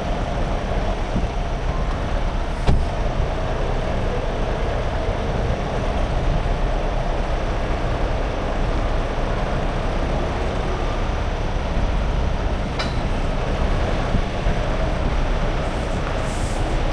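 A semi-truck on the move: a steady road and engine rumble with a lot of low end, with a single sharp click about three seconds in.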